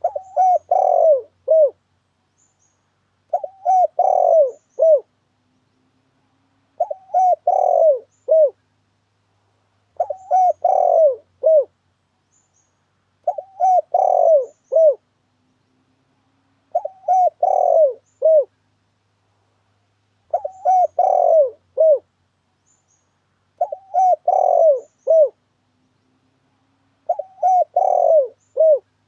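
Spotted dove (tekukur) cooing: a repeated lure call, the same short phrase of several coos ending in a separate final note, given nine times at an even pace of about one phrase every three and a half seconds.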